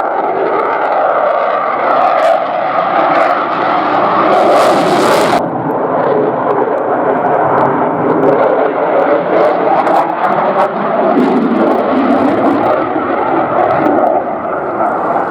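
Eurofighter Typhoon jet flying a display, its twin jet engines making a loud, steady rushing noise that starts to fade near the end.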